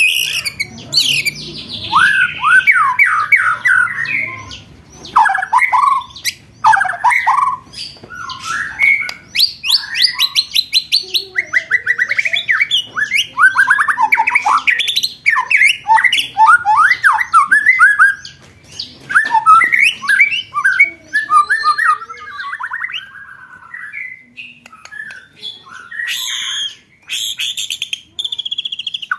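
Songbird song in fast, varied phrases: rapid trills and quick rattling runs of sharp repeated notes, loud and almost continuous. This is a rapid-fire 'roll tembakan' masteran recording of the kind used to train contest birds.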